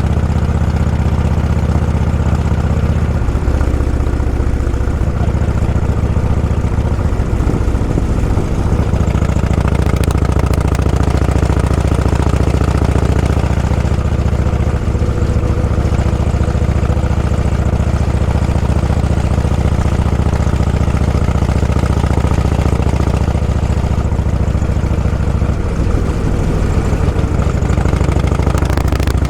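Motorcycle engine running steadily at low revs, its note shifting in speed about three seconds in and again near the end.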